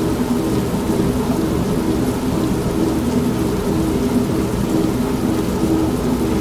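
An old semi-automatic washing machine running with a pulsing hum, mixed with steady rain and a low, continuous thunder rumble.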